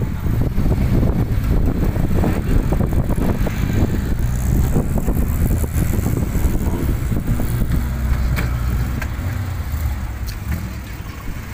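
Classic Minis' A-series four-cylinder engines running as the cars pull away and drive slowly past, a steady low rumble that eases slightly near the end.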